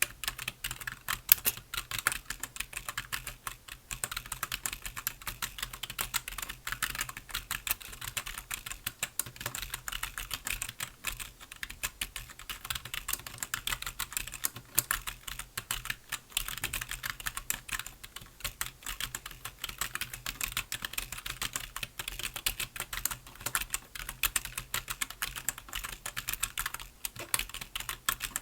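Computer keyboard being typed on continuously: a fast, dense stream of key clicks with no pauses, and a faint steady hum underneath.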